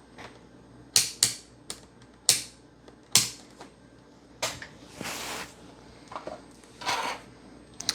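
Scattered clicks, knocks and a couple of short rustles of a voltmeter and its test leads being picked up and handled on a workbench.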